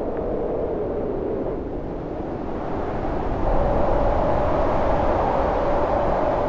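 Howling storm wind: a steady rush carrying a moaning tone that sags in pitch, then rises and grows louder in a gust about halfway through.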